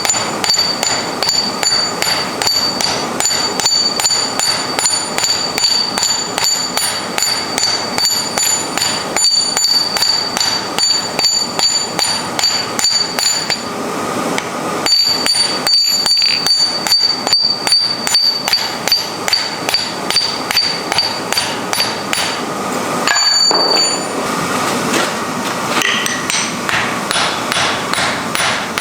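Rapid, steady hammer blows on iron at the anvil, several a second, with a high ringing tone carried through the strikes. The blows pause briefly about halfway through and again near the end, and the ring fades in the last few seconds.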